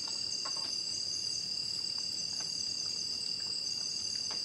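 Steady chorus of forest insects such as crickets or cicadas: several high, unbroken shrilling tones. A few faint clicks sound over it.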